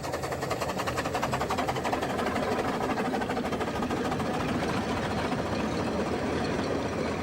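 Small 2 ft gauge railway train running, a fast, even rhythmic beat that holds steady throughout.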